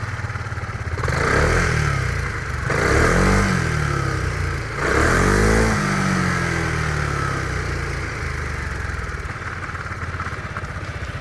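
Zontes M310 scooter's 309cc liquid-cooled single-cylinder engine idling through its stock exhaust muffler, blipped three times in quick succession, each rev rising and falling back to idle. The exhaust note is pretty quiet.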